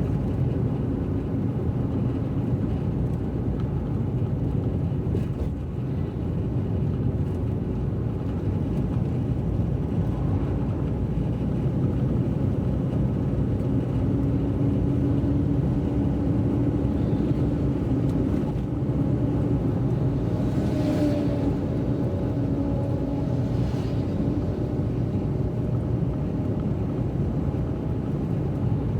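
A car driving on a wet road: steady road and engine noise. A faint hum comes in about halfway through and fades a few seconds before the end.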